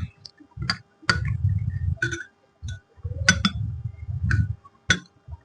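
Close-miked eating: chewing with low mouth sounds and sharp clicks roughly once a second, from someone eating puri with potato curry.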